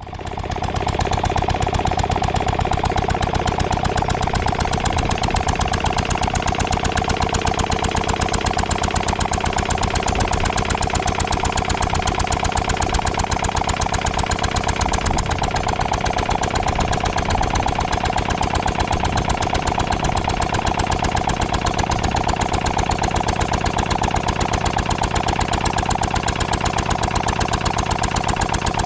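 Ruston & Hornsby 2PS petrol-engined portable air compressor running steadily with a fast, even beat.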